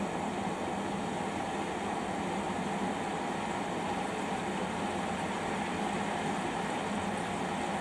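Samsung washing machine running a quick wash cycle: a steady hum with an even hiss that does not change.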